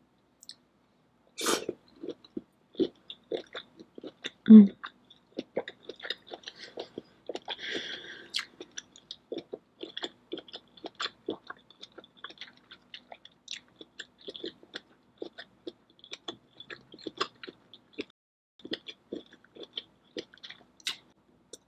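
Close-miked chewing of a sauce-coated shrimp: many small mouth clicks at an uneven pace, with a short low throaty sound about four and a half seconds in.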